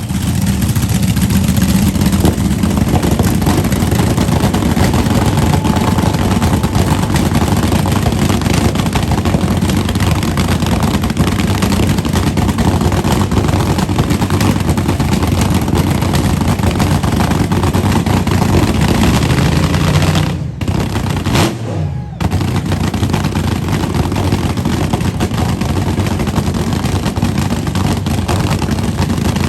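Loud, continuous car engine and exhaust noise, rough and dense. It breaks off briefly about two-thirds of the way through, then resumes.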